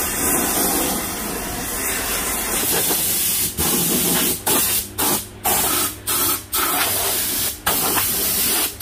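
A hissing jet of gas or air, steady for about three seconds, then cut into short bursts about twice a second.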